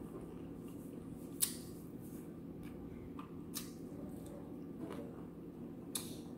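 Person eating a fried chicken wing close to the microphone: chewing with a few sharp wet smacks and clicks, the loudest about a second and a half in, others near three and a half and six seconds, over a steady low background hum.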